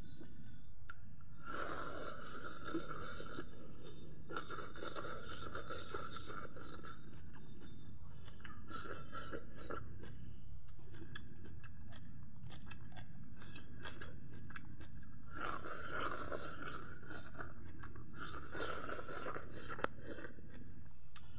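A person chewing and crunching mouthfuls of food close to the microphone, in spells of a few seconds with short pauses between.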